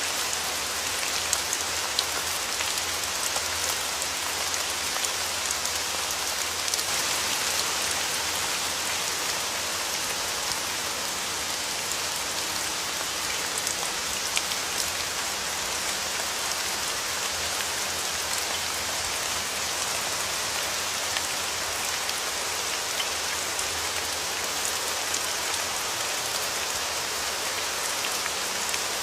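Steady rain falling on a surface: an even hiss of rain with individual drops ticking now and then.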